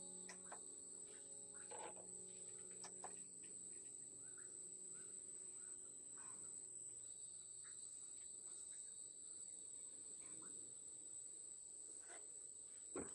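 A faint, steady high-pitched insect trill, with a second, lower insect tone joining about halfway. Soft scattered clicks and knocks of handling come through it, with a sharper knock near the end. The last notes of background music die away in the first few seconds.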